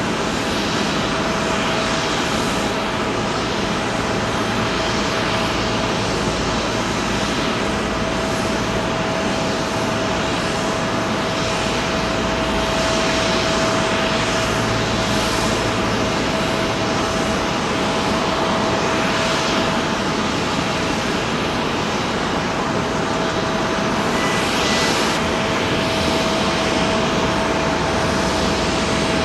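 Airliner jet engines running steadily: a dense, even roar with a constant whine held at one pitch.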